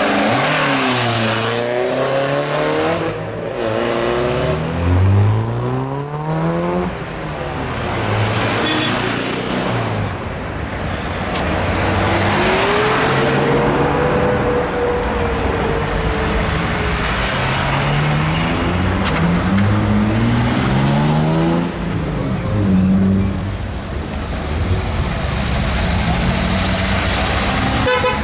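Engines of tractors and cars driving past one after another, each one's engine note rising and then falling as it passes.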